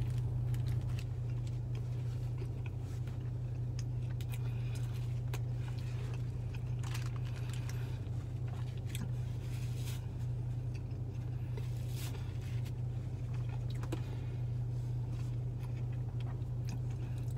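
A person chewing a pulled pork sandwich, with occasional crinkles of the paper wrapper and napkin, over a steady low hum inside a car.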